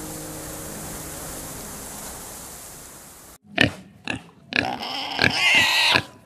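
A steady hiss for about three seconds that cuts off suddenly, then pigs grunting in short calls and one long, loud squeal.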